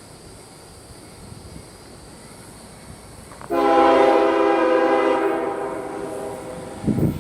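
Diesel locomotive air horn sounding one blast of about three seconds, starting suddenly about halfway through and slowly fading. Loud rumbling noise starts just before the end.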